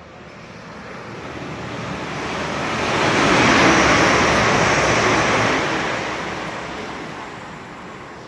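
A fast train passing through the station without stopping. Its rushing noise swells to a peak about three to five seconds in, then dies away.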